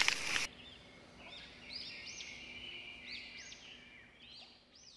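Wild bird calling: a series of short, quick, looping whistled notes, repeated several times. It comes after a brief rustle of hand-on-microphone handling noise that cuts off abruptly half a second in.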